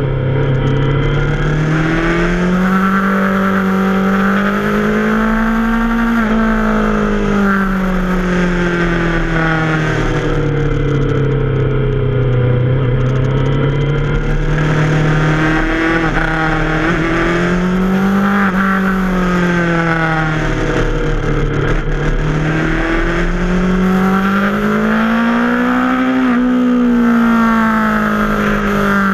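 Yamaha FZ6R's 600 cc inline-four engine running under way, its pitch climbing and falling slowly several times as the throttle is opened and rolled off through a run of curves.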